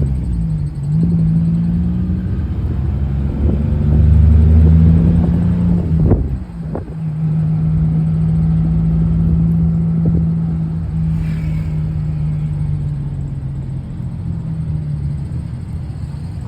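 Motor vehicle engine running while under way, heard from on board, with a steady low note that briefly drops away and picks up again twice, as at gear changes.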